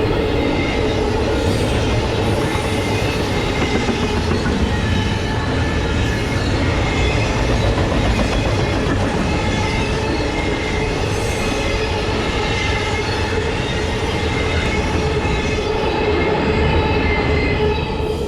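Norfolk Southern freight train's cars rolling past, steel wheels rumbling and clicking on the rails with a steady high flange squeal.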